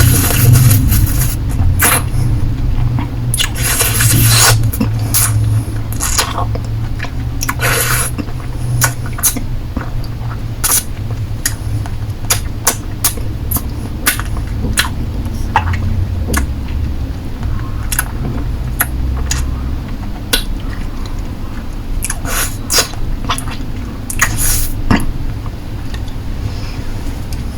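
Close-miked mouth sounds of someone sucking and licking a hard lollipop: irregular wet clicks and smacks of lips and tongue on the candy, with a few longer slurping licks near the start and again near the end, over a steady low hum.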